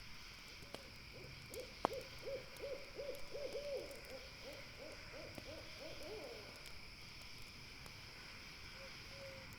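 An owl gives a long, rapid run of short hoots, about three a second, for some six seconds, then a single short note near the end. Under it are a steady high hiss and scattered crackles of a campfire.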